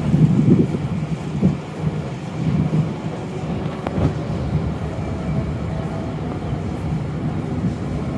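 Wind buffeting the microphone over a steady low rumble, with a couple of faint short tones a little past the middle.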